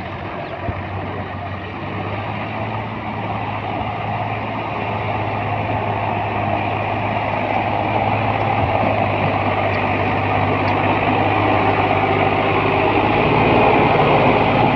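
A tractor's diesel engine running steadily, its hum slowly growing louder.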